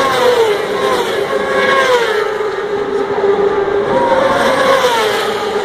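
Superbike racing motorcycles passing at speed, several engine notes falling in pitch as they go by, over a steady drone of other bikes on track.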